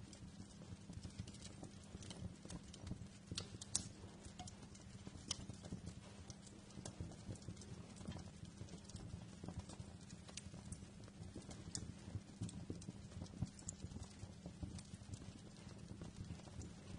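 Wood fire in a fireplace crackling, with irregular small pops and snaps over a low steady rumble of the flames, and a sharper pop about four seconds in.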